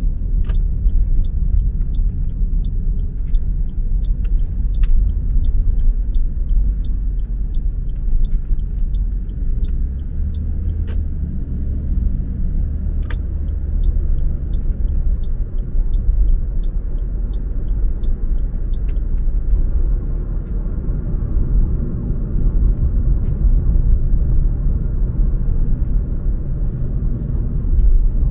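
Car being driven on the road, a steady low rumble of engine and tyre noise. A light, regular ticking runs at a little over two ticks a second and stops about two-thirds of the way through.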